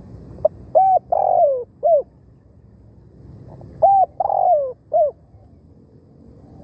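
Spotted dove cooing: two calls, each a short run of hoarse coos with one longer, downward-sliding note in the middle, the second call starting about three seconds after the first.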